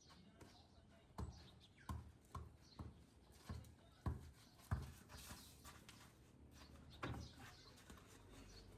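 Quiet background with about eight irregular soft thumps or knocks, most of them between one and five seconds in and one more about seven seconds in, and faint high chirps between them.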